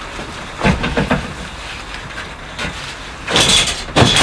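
A few knocks and a short scrape as a freshly sawn piece of wood is pushed into place in the rack, with a sharp knock near the end.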